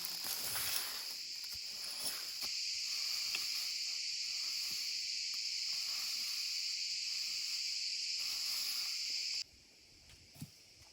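Steady high-pitched insect chorus with a few faint rustles and clicks beneath. It cuts off abruptly about nine seconds in, leaving quiet ambience and one soft thump.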